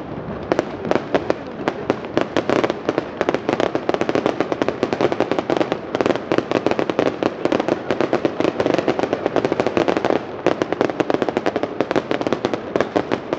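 Fireworks display going off in a dense, rapid barrage of bangs and crackles, many a second, easing briefly about six and ten seconds in.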